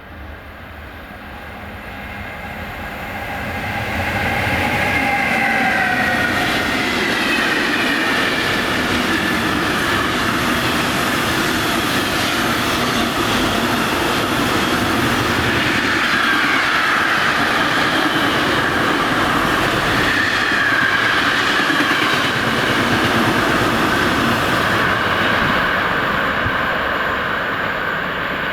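DB Cargo class 152 electric locomotive hauling an intermodal freight train past, growing louder over the first few seconds. Its whine falls in pitch as it passes, then the wagons roll by with a steady rumble and high-pitched wheel squeal.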